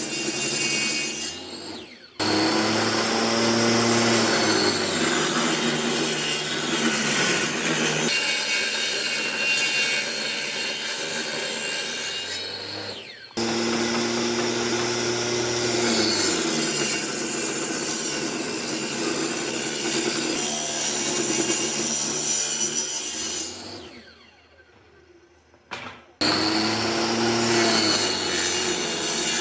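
Power tool cutting and rasping wood over a steady motor hum. The sound breaks off abruptly and restarts three times, with a brief near-quiet gap near the end.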